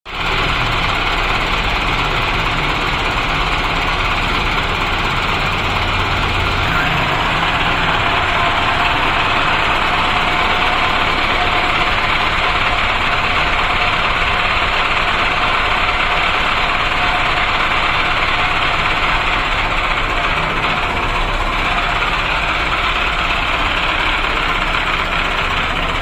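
Tractor diesel engine running steadily, a loud, even mechanical noise that starts suddenly and holds level throughout.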